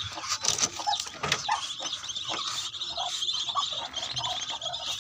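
A group of newly hatched ducklings peeping continuously, many high calls overlapping, with scattered short taps among them.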